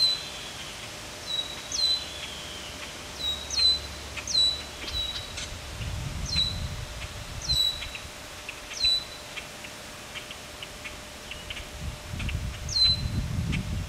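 A bird calling repeatedly: about eight short, high notes, each dropping steeply in pitch and ending on a brief held tone. Faint ticks come between the calls in the second half, and low rumbles are heard about halfway through and near the end.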